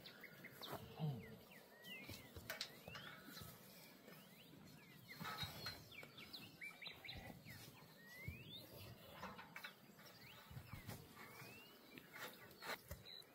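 Faint outdoor ambience with birds making short, quick chirps that sweep up or down in pitch, repeated every second or so, and a few light clicks.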